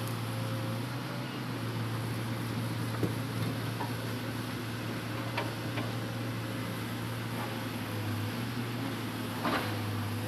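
Hitachi Zaxis 200-5G excavator's diesel engine running at a steady speed while loading logs, with a few faint knocks.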